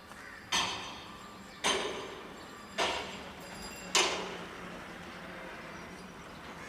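Four sharp knocks a little over a second apart, each with a short ringing tail, over a steady low hum.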